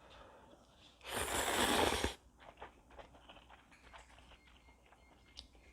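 Ramen noodles slurped hard and noisily for about a second, followed by soft chewing clicks.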